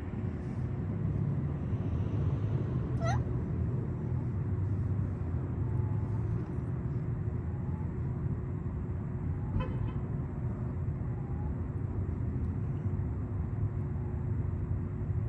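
Steady low rumble of vehicle traffic with a constant hum. Two short, quick rising squeaks cut through it, about three seconds in and again near ten seconds.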